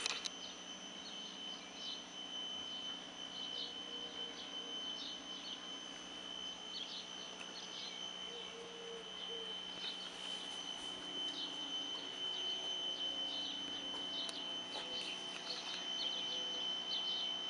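Birds chirping in short, scattered calls, over a steady high-pitched whine.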